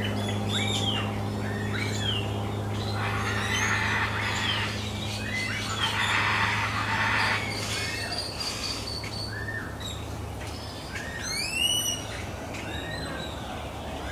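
Many birds chirping and calling over one another in quick, short rising-and-falling notes. Beneath them runs a steady low hum that fades about halfway.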